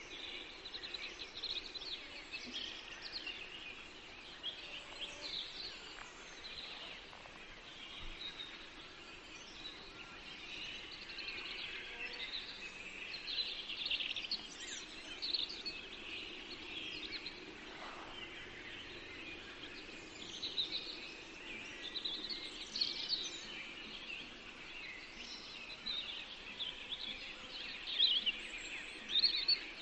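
Several songbirds singing and chirping together over a steady faint hiss: a forest dawn chorus of many short overlapping chirps and trills.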